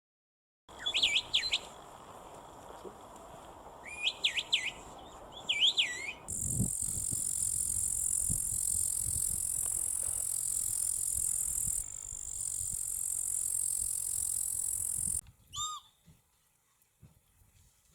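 Wild bird calls: three short phrases of whistled notes sweeping up and down, then a long steady high-pitched buzzing trill lasting about nine seconds, then a single brief call.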